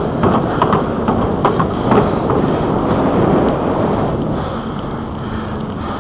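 Riding noise from a bicycle on a paved trail: a steady rush of wind and rolling tyres, with several short clicks and knocks from the bike in the first couple of seconds.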